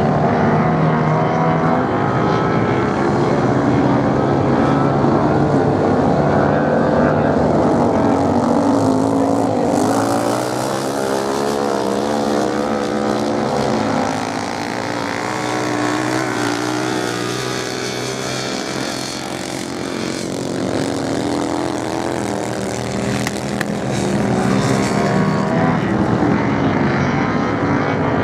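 Several motorcycle engines racing at once, a continuous overlapping drone whose pitch keeps rising and falling as the bikes accelerate, shift and pass. It eases somewhat in the middle and builds again near the end.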